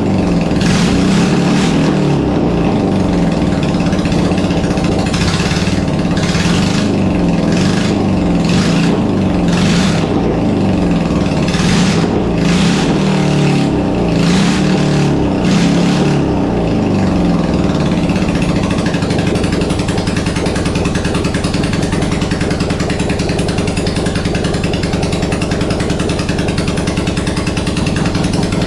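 1980s BMW air-cooled flat-twin boxer engine running loud and raw, revved up and down repeatedly for about the first sixteen seconds, then settling into a steadier, even run.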